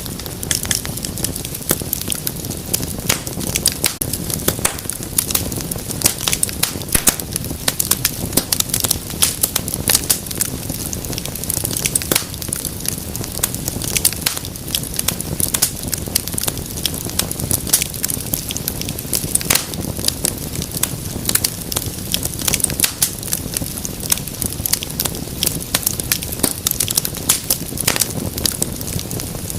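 Wood fire crackling, with a dense, irregular stream of sharp snaps and pops over a low rush of flame.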